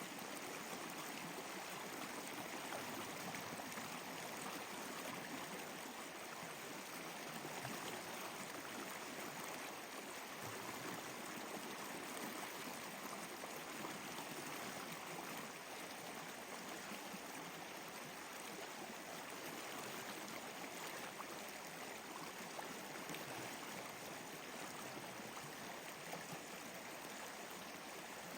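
Flowing water like a stream, a steady even rushing with no distinct crackles.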